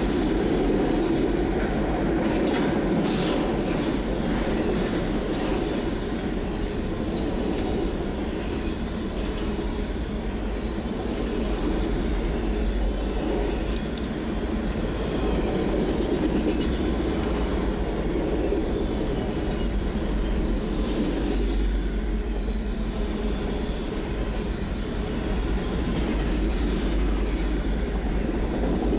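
Freight train of autorack cars rolling past close by: a steady rumble of wheels on the rails, with light clicking and clatter from the cars.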